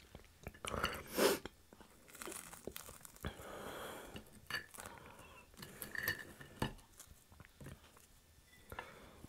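Close-up mouth sounds of someone eating crispy fried pork chop: wet chewing and crunching in irregular, scattered bites, loudest about a second in.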